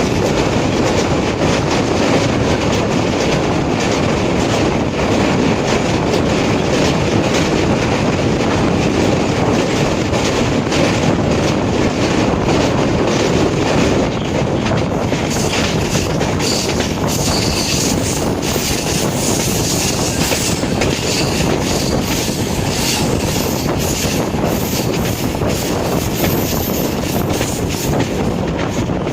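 Rajyarani Express running at speed, heard from aboard: a steady rumble with the wheels clacking over rail joints. About halfway through, a higher hiss joins in.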